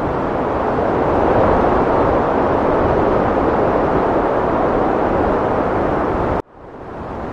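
Heavy wind blowing, a loud steady rushing that swells slightly. Near the end it cuts off abruptly and fades back in, like the join of a looped recording.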